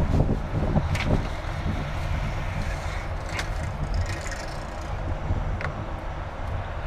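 Semi truck's diesel engine idling steadily, heard from inside the cab, with a few light clicks over it.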